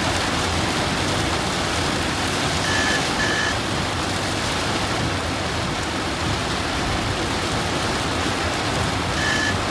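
Very heavy rain drumming on a car's roof and windshield, heard from inside the cabin as a loud, steady hiss. A double beep sounds a little under 3 s in and again near the end.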